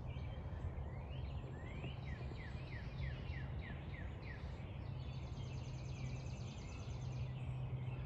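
A songbird sings a run of about ten short slurred whistled notes, about three a second, over a steady low background hum. A quick, high, buzzy trill follows about five seconds in.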